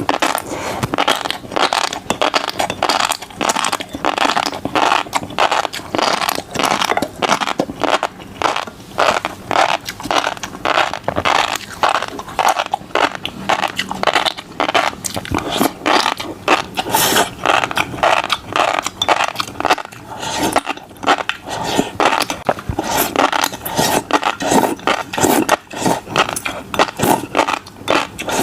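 Close-miked chewing of fish roe, the beads popping and crackling in a fast, steady stream of small clicks.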